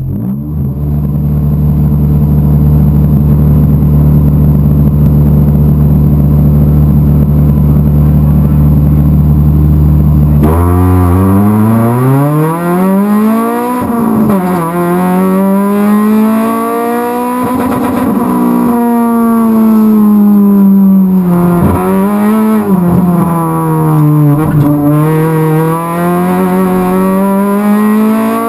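A Honda CRX race car's four-cylinder engine, heard from inside the cabin, held at steady revs for about ten seconds. Then the car launches: the engine note climbs sharply and drops back at a gear change a few seconds later. After that it keeps rising and falling through the gears.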